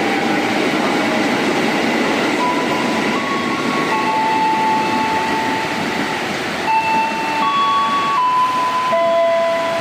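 Electric commuter train running at the station: a steady rumble with a whine of steady tones that jump to new pitches every second or so.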